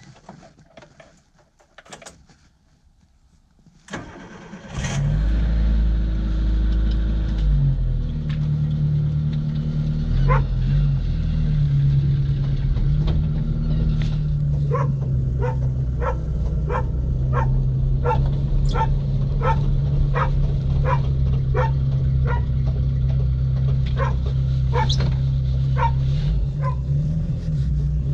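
Suzuki Samurai's four-cylinder engine starting about five seconds in after a few light clicks, then running steadily as the vehicle pulls away and drives. From around a third of the way in, a regular clicking comes about one and a half times a second.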